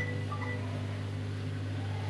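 Steady low machine hum, with faint short high tones over it near the start.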